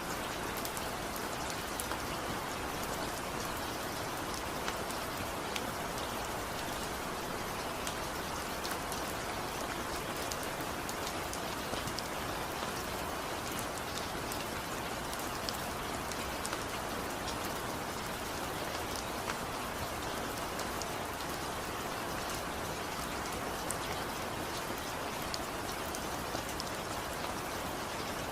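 Steady rain falling, with a continuous hiss and many small drops ticking on a surface. The description says there is no thunder and no music.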